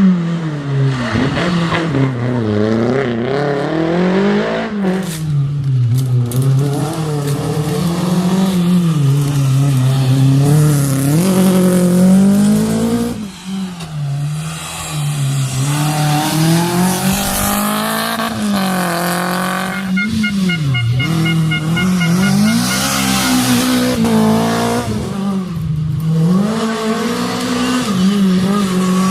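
Renault Clio Williams rally car's 2.0-litre four-cylinder engine driven hard, revving up and down again and again through gear changes and corners. A short run of rapid high beeps sounds about two-thirds of the way through.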